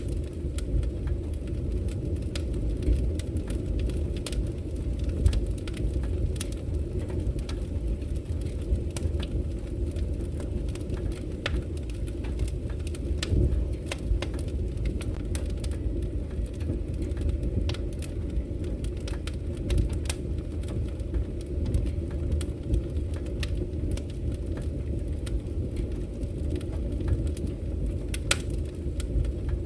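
Wood fire crackling in a fireplace, with frequent small sharp pops over a steady low rumble.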